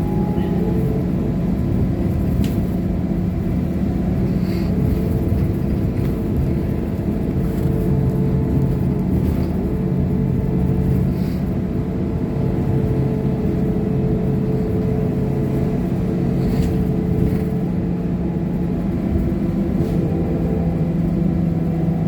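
Trolleybus running noise heard from inside: a steady low rumble with a constant electrical hum of several tones.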